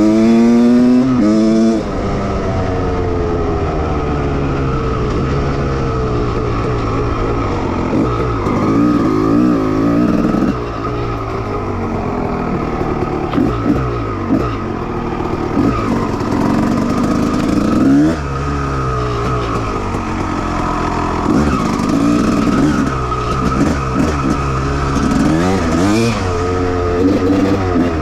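1989 Honda CR250R's 250 cc two-stroke single-cylinder engine revving up and down. The pitch climbs steeply at the start, drops about two seconds in, then rises and falls repeatedly, with several quick throttle blips near the end.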